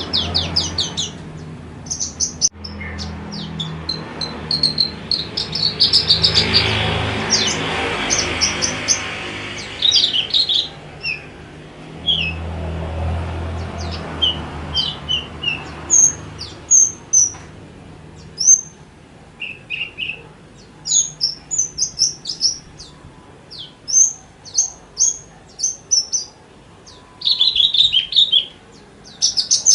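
Javan bush lark singing: a quick run of short, high chirps and trills with only brief gaps between phrases. A low rumble sits under the song for about the first half.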